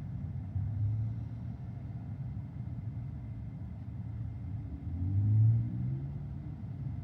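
Steady low road and tyre rumble inside the cabin of a Tesla Model Y while it drives, with a brief swell about half a second in and a louder swell with a rising tone around five seconds in.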